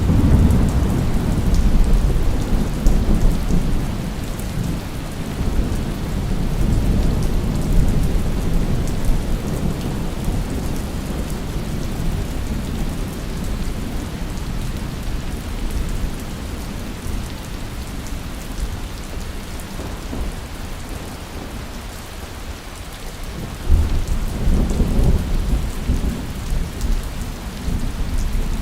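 Steady heavy rain hissing, with low rolling thunder rumbling through the first several seconds and again about 24 seconds in.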